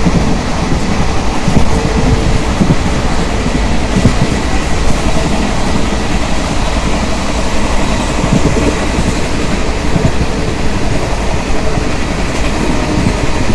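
Indian Railways passenger train running at speed, heard from the open doorway of a coach: a steady loud rumble and rattle of the wheels on the rails.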